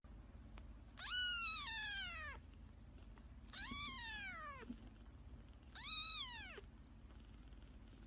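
A cat meowing three times: long, drawn-out calls that rise and then fall in pitch, a second or two apart, the first the longest and loudest.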